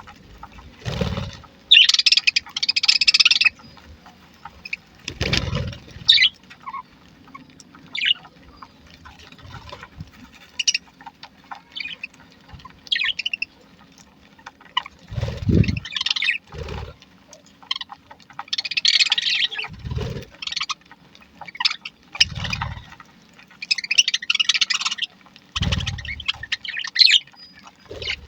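A budgerigar colony chirping and chattering, with dense bursts of high twittering that come and go every few seconds. Several short low thuds are heard between the chirps.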